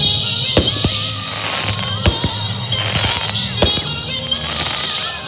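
Fireworks going off: three sharp bangs about a second and a half apart, with crackling between them, while a song plays over the top.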